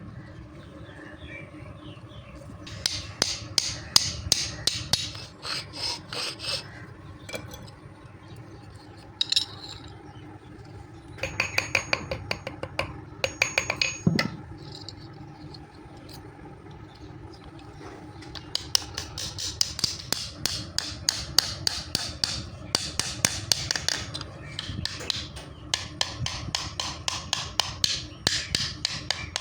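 Hammer forging hot steel on an anvil: runs of quick blows with short pauses between them. A few strikes near the middle ring out. A steady low hum runs underneath.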